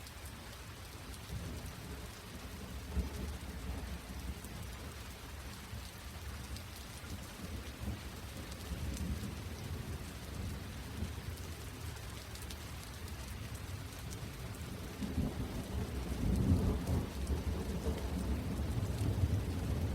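Steady rain falling, with a deep rumble of thunder that swells over the last few seconds.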